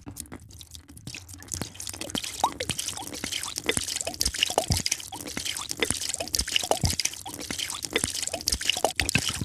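A drink being poured: liquid dripping and splashing into a container in a dense stream of small drips and plops, many with short upward-sweeping bubble pops.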